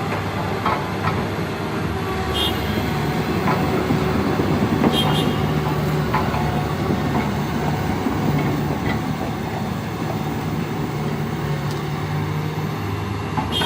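Toyota Hilux pickup's engine running steadily under load while driving through mud, with scattered knocks and clatter.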